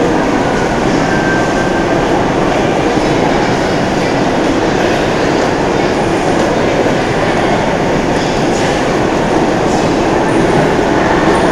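A train running, a steady dense rumble that does not let up.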